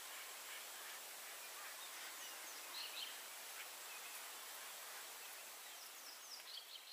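Faint bush ambience: a steady hiss with a few short, high bird chirps about three seconds in and again near the end.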